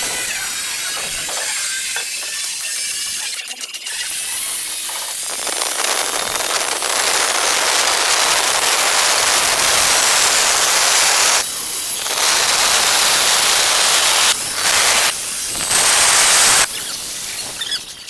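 Angle grinder cutting ceramic tile: a loud, steady hissing grind that grows fuller about five seconds in, with a few brief drops near the end.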